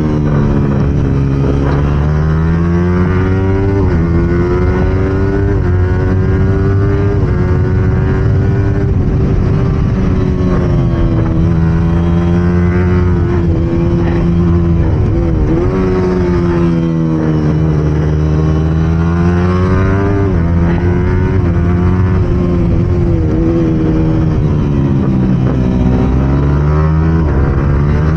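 Yamaha R15's single-cylinder engine racing around a tight circuit, heard from on board. The pitch falls away each time it slows for a corner and climbs again under throttle, over and over, with quick dips at the gear changes.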